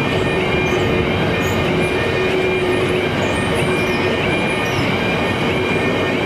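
Freight train rolling past at trackside, a steady loud noise of wheels on rail with faint high-pitched squealing.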